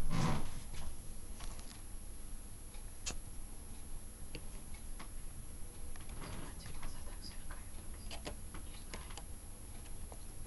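Scattered faint light clicks and ticks, irregularly spaced, with a brief soft rustle about six seconds in.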